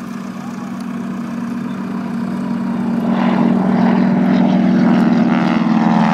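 North American propeller plane's piston engine running at high power as the aircraft approaches, a steady drone that grows louder through the first few seconds.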